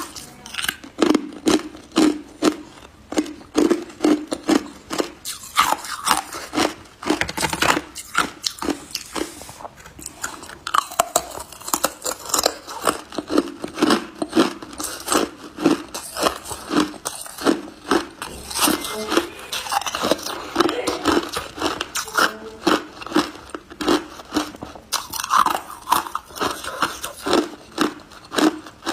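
Close-miked chewing of ice, a dense run of sharp crunches at about two to three bites a second as ice cubes and crushed ice are bitten and ground between the teeth.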